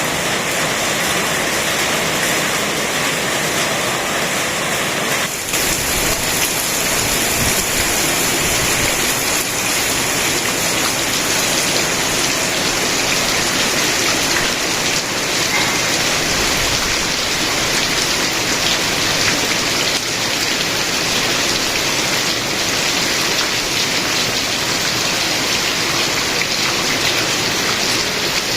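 Steady, heavy rain falling and pattering on surfaces as a continuous even hiss. About five seconds in the sound briefly dips and shifts slightly in character, then carries on unchanged.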